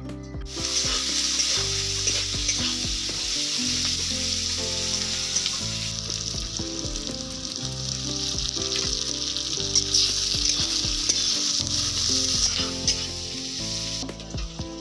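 Chicken leg pieces frying in hot oil in a pan, a steady loud sizzle that starts about half a second in and eases off near the end.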